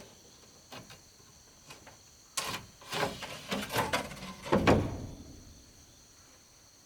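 Knocks, scrapes and clatter of bamboo or wood being handled during construction. There are a few light knocks at first, then a busy cluster of knocks about halfway through, the loudest near the end of that cluster. A steady high insect drone runs underneath.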